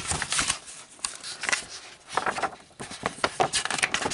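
Handling noise: irregular rustling and light taps and clicks of paper and packaging being handled.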